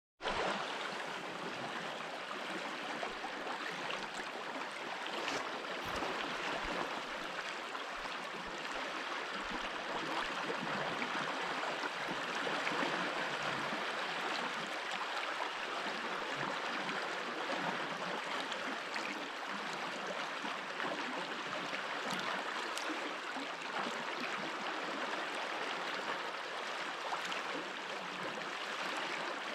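A mountain stream running over stones: a steady, even rush of flowing water with small splashes.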